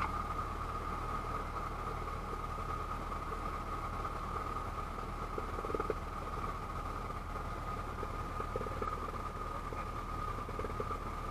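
Cessna 172's piston engine running steadily in the cockpit on the ground before takeoff, a low drone with a steady high-pitched whine over it.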